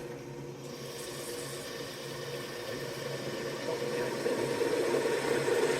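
Ryobi benchtop drill press running with its bit cutting into steel pipe, the bit freshly lubricated. The motor hums steadily, and the cutting noise grows louder over the last couple of seconds.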